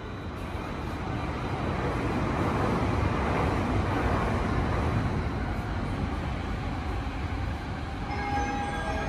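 Train noise at a railway platform: a steady rumble that swells to its loudest around the middle and then eases off. Near the end a string of short, steady pitched tones begins.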